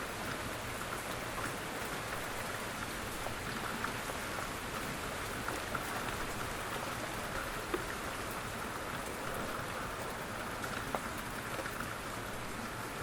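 Steady rain falling, an even hiss with scattered individual drops ticking and dripping now and then.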